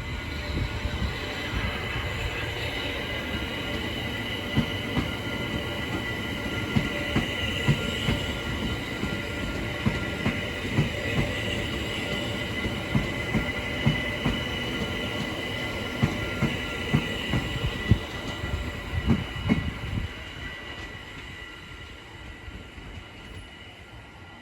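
London Overground class 378 electric multiple unit moving through the station, with a steady high-pitched whine or squeal and irregular wheel clicks over the rail joints. The sound fades away over the last few seconds.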